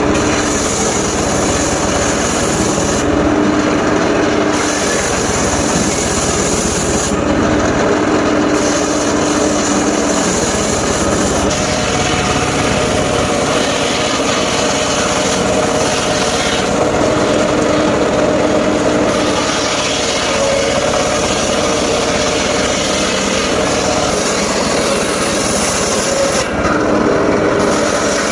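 Circular saw of a mobile sawmill cutting through timber, a loud steady sawing noise with a faint humming tone that comes and goes every few seconds.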